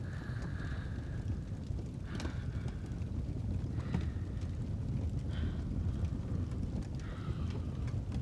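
Fireplace ambience: a steady low rumble with a few sharp crackles from the fire, and soft, slow breathing swells every couple of seconds.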